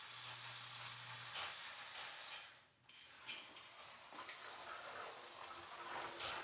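HO-scale slot car running on the track: a steady, high-pitched hissing whir from the small motor and pickup shoes on the rails, with a short low hum at the start and a brief cut-out a little under three seconds in.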